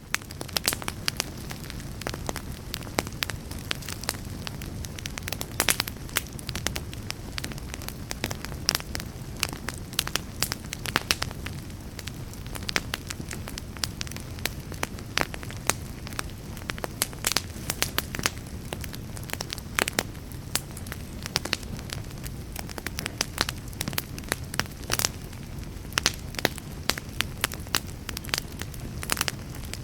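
Wood fire in a fireplace crackling, with frequent sharp pops over a steady low rush of flames.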